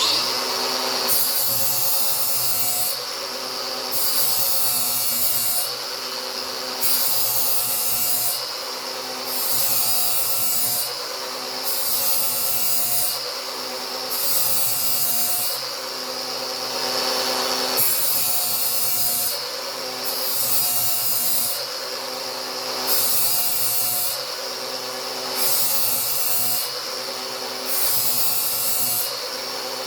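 Angle grinder starting up suddenly and grinding a new edge on a steel lawn mower blade. The motor runs steadily while the hiss of the disc on the steel comes and goes in repeated passes about every two seconds.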